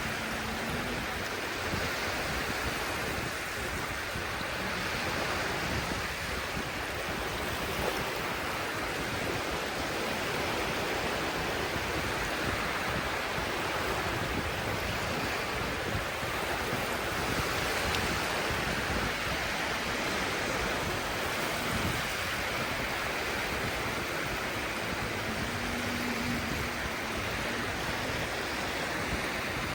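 Sea waves washing onto the shore, a steady rushing surf.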